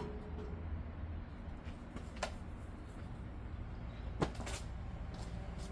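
A few sharp clicks and knocks of hand tools and fan parts being handled, the loudest about four seconds in, over a low steady rumble.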